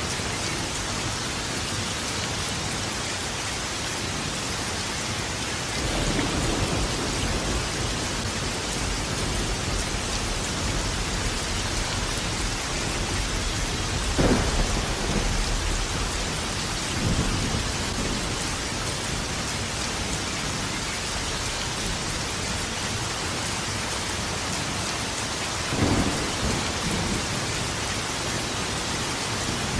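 Steady heavy rain falling, with thunder rumbling several times: a low rumble about six seconds in, a sharper, louder clap about fourteen seconds in followed by more rumbling, and another clap near the end.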